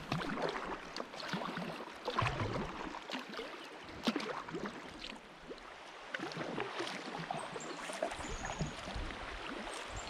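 Kayak paddle strokes dipping and splashing in river water, with irregular small splashes and drips.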